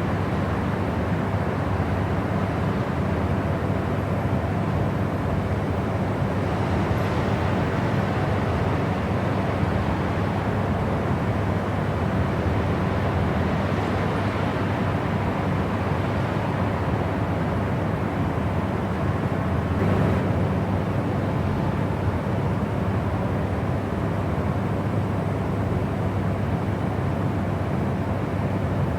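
Steady white-noise track, a constant deep rushing hiss weighted toward the low end, like cabin rumble, with a faint tick about twenty seconds in.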